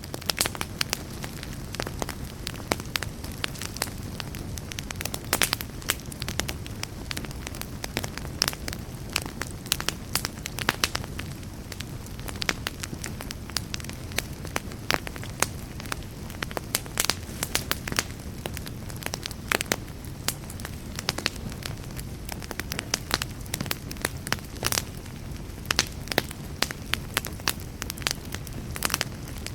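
Wood fire burning in a fireplace, crackling with frequent sharp pops and snaps over a steady low rush of flames.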